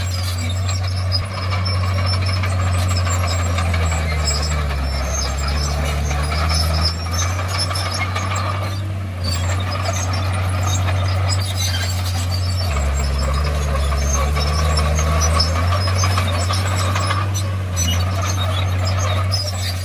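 Komatsu D51PX bulldozer's diesel engine running hard, its note sagging lower twice for a few seconds as if taking load, with a light high clatter and squeaking over it.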